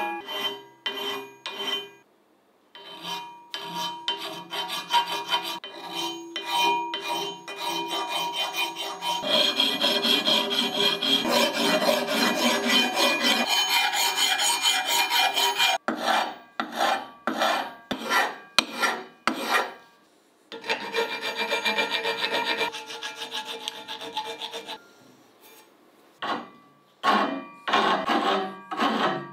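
Repeated rasping, scraping strokes on a hard surface, with a faint ringing tone underneath. They are quick and separate at first, run together into a continuous scrape for several seconds in the middle, then go back to separate strokes after short pauses.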